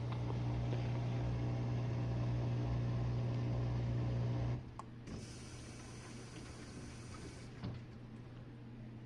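Jenn-Air dishwasher's pump motor running with a steady hum, cutting off abruptly about halfway through. A faint hiss follows for a couple of seconds, then a single click.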